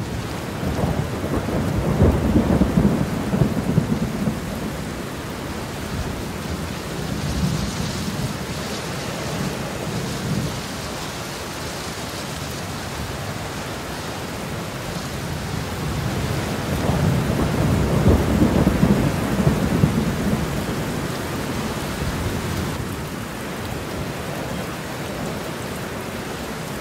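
Steady rain falling during a thunderstorm, with two long, low rolls of thunder, one near the start and one about two-thirds of the way through.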